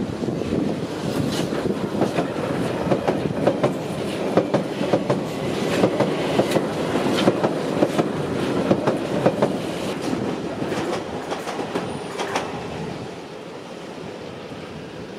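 London Underground 1996 Tube Stock Jubilee line train running past close by, its wheels clicking over rail joints and points. The sound fades away over the last few seconds.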